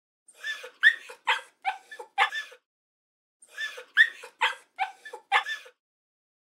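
An animal calling in a burst of several sharp yelps over about two seconds, then the same burst again after about a second of silence.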